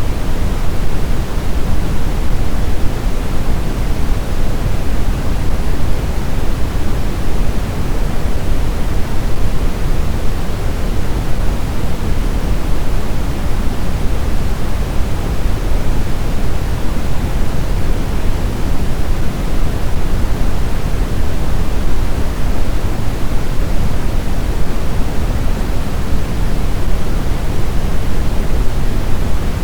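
Snowstorm wind ambience: a steady, even rushing noise, heaviest in the low end, with no distinct gusts or howls.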